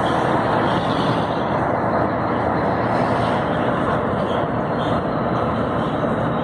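Scania 112 truck driving, its diesel engine and road noise running steadily without change.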